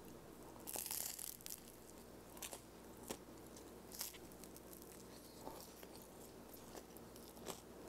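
A bite into the crisp crust of a slice of focaccia about a second in, followed by faint chewing with a few scattered crunches.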